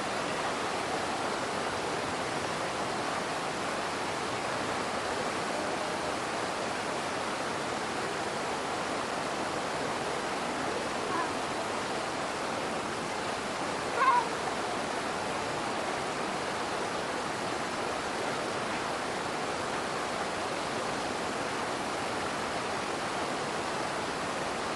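Steady rushing of a small waterfall running low, its flow reduced by dry weather. About fourteen seconds in, a brief, loud, high-pitched sound falls in pitch, with a fainter one a few seconds earlier.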